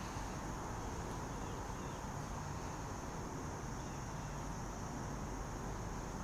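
Steady outdoor background: a continuous high-pitched insect drone, like crickets, over a low, even rumble, with no distinct events.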